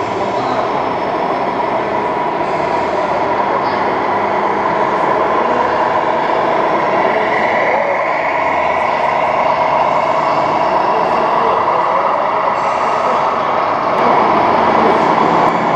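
1:14 scale radio-controlled model trucks running, a steady mechanical noise with no pauses.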